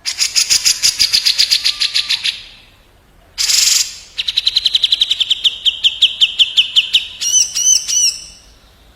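Cucak jenggot (grey-cheeked bulbul) and kapas tembak birds trading calls. It opens with a fast rattling run of harsh notes, then a short harsh burst. A rapid series of clipped notes follows, about seven a second, and it ends on three quick arching whistles.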